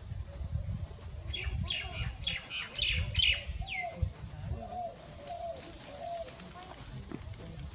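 A wild bird calling: a quick run of about eight sharp, high notes ending in a falling note, then a fainter high chatter, over a steady low rumble.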